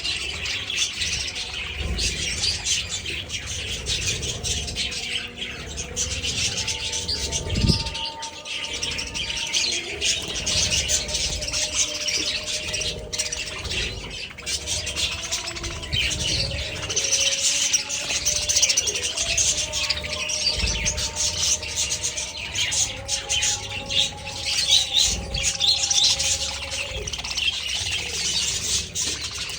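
A large flock of budgerigars chirping and chattering nonstop, many birds calling at once in a dense, shrill din. There is one low thump about eight seconds in.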